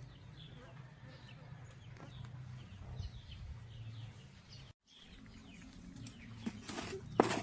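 Baby birds chirping: a string of short, thin, high chirps repeated every fraction of a second over a steady low background hum, broken briefly just past the middle, with a few louder sharp sounds near the end.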